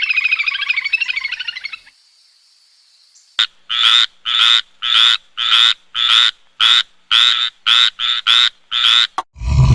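Frogs calling: a fast pulsed trill for about the first two seconds, then, after a short pause, a run of about a dozen short croaks, roughly two a second.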